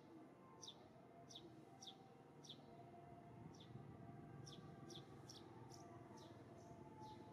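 Faint bird calls: short high chirps, each sweeping quickly downward, repeated over and over at roughly one to two a second.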